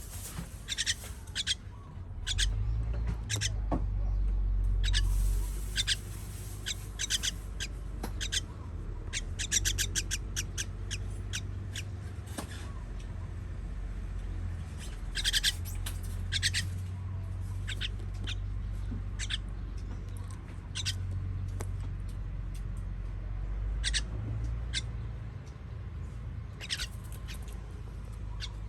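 Baby birds begging to be fed: short, sharp, high-pitched squeaky chirps, singly and in quick runs, over a low steady rumble.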